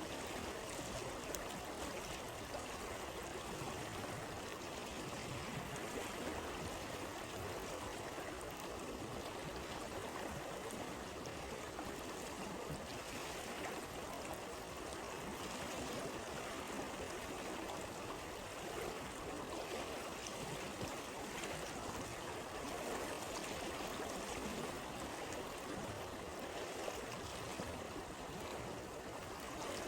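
A river or stream flowing steadily, a continuous rushing and burbling of water.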